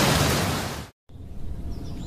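Heavy rain and storm noise that fades and cuts off about a second in. After a brief gap comes a quieter low background, with faint bird chirps starting near the end.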